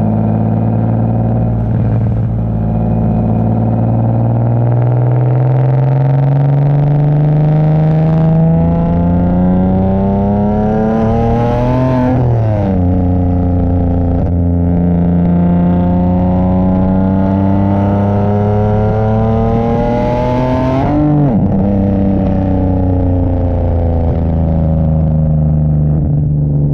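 Nissan 370Z's VQ37VHR V6 running through an aftermarket exhaust while driving, its note climbing steadily under acceleration. The pitch drops sharply at an upshift about halfway through, climbs again to a second upshift about three quarters through, then holds steady at cruise.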